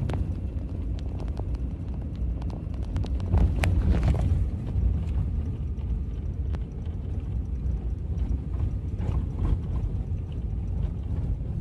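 Truck driving on a snowy dirt road, heard from inside the cab: a steady low rumble of engine and tyres, with scattered knocks and rattles over the bumps.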